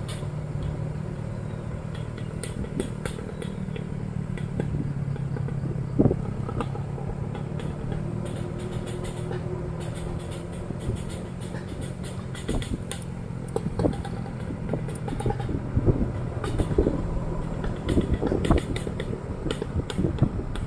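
Motorcycle engine running at steady low revs while riding, with frequent short knocks and rattles over it.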